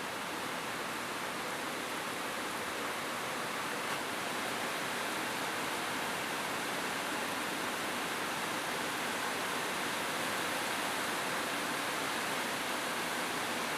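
Steady rain falling on a roof: an even, unbroken hiss of drops with no thunder.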